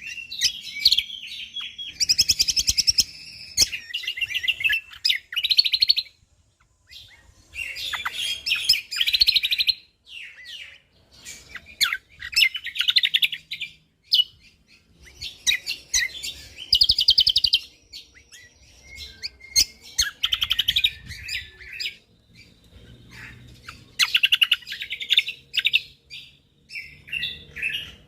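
Cucak kombok (kecial kombok) songbird singing vigorously in dense rapid-fire bursts of high chirping phrases, each burst a second or a few seconds long with short pauses between.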